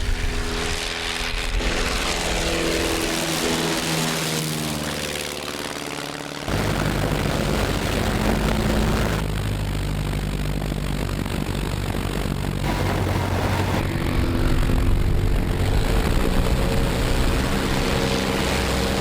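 Propeller engine of a vintage Fokker aircraft running in flight as it passes by, its pitch falling and later rising again. The sound changes abruptly several times, with a jump in loudness about six and a half seconds in.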